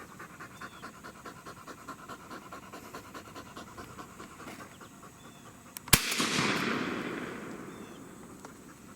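A dog panting rapidly, then a single shotgun shot about six seconds in, its report rolling away over about two seconds.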